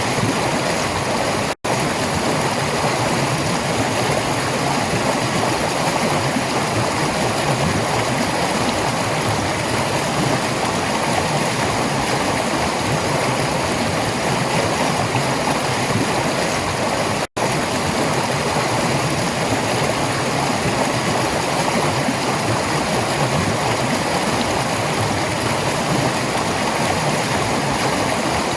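Steady rushing and gurgling of a fast-running stream. The sound cuts out for an instant twice, about a second and a half in and again about seventeen seconds in.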